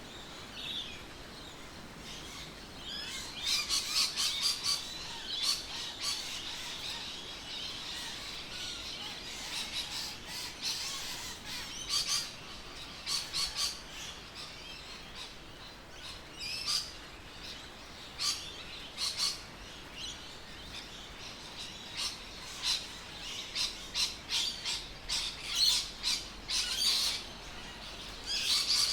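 Birds chirping and calling: runs of short, high chirps, some in quick series, over a faint steady background.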